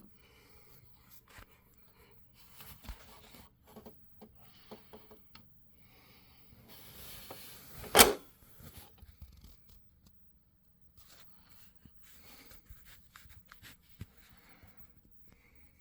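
Quiet rustling and small scattered clicks, like things being handled at close range. About eight seconds in, a brief hiss swells and ends in one sharp, loud click.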